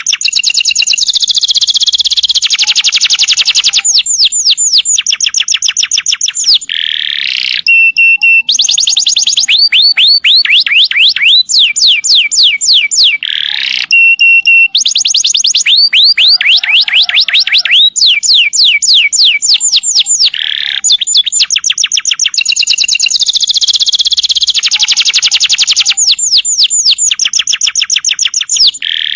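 Domestic canary singing long rolls. Each roll is a fast trill of one note repeated many times a second, and one roll runs straight into the next with hardly a break.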